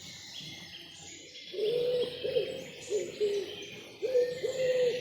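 Owl hooting: a run of short, low hoots that dip in pitch at their ends, starting about a second and a half in. Small songbirds chirp and twitter higher up throughout.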